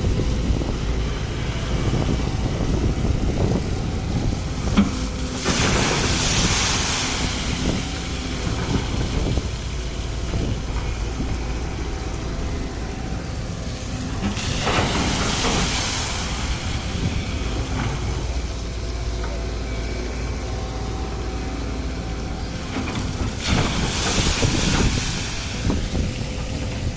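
Sumitomo excavator's diesel engine running steadily, with three bursts of hiss about six, fifteen and twenty-four seconds in.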